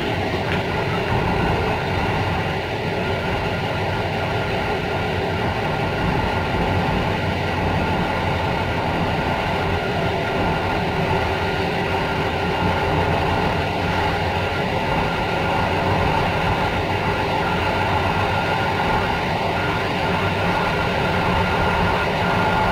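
Passenger train carriage running at speed on rails, heard from inside the rear car: a steady rolling rumble of wheels on track with a few faint steady tones over it.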